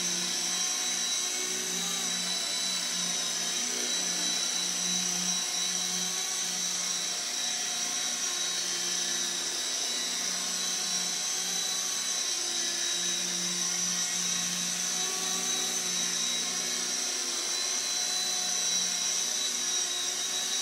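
Small electric CB180Q radio-controlled helicopter in flight: a steady high-pitched motor whine over a lower rotor hum that wavers and drops out briefly several times as the throttle is worked.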